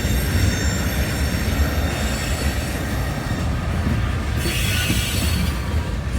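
Railcars rolling past with their steel wheels squealing against the rails over a low rumble. A short burst of hiss comes about four and a half seconds in.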